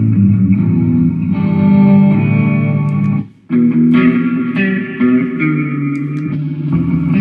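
Jackson electric guitar played through a Mooer GE150 multi-effects pedal: a run of notes and chords that breaks off briefly about three seconds in and then carries on.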